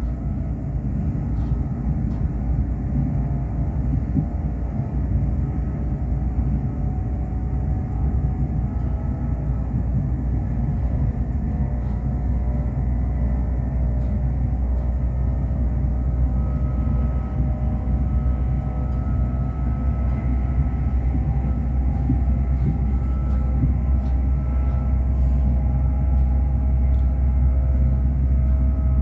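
Class 350 Desiro electric multiple unit running, heard inside the passenger saloon: a steady low rumble of wheels on the track with a few faint whining tones from the traction equipment, growing slightly louder toward the end.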